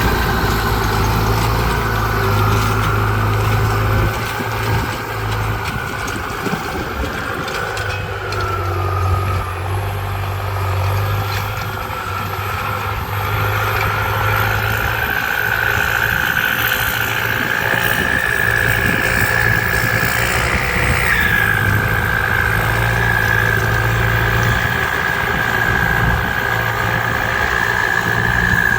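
ZT 155 tractor engine running steadily, with a high whine over it that shifts slightly in pitch.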